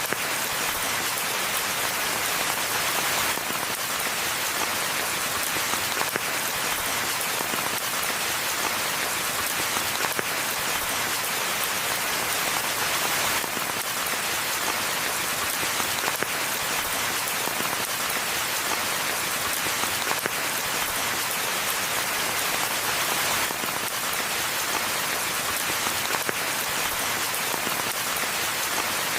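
Steady rainfall in a forest, a dense even hiss of many drops pattering on leaves and the ground.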